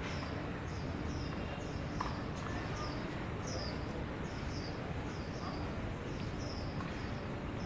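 A bird calling over and over: short high chirps that slide downward, about two a second, over a steady background noise.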